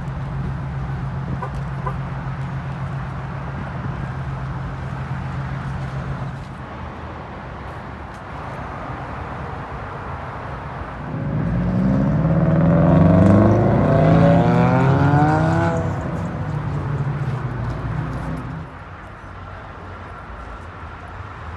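A car engine idling steadily, then a car engine revving up with its pitch rising in several climbs, loudest about halfway through, then dying away.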